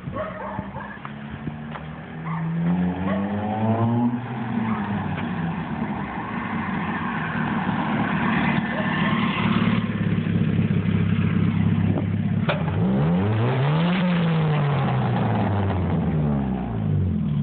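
1972 Toyota Celica four-cylinder engine revving hard as the car pulls away and accelerates, running loud at high revs, then revved up once more and dropping back as it slows near the end.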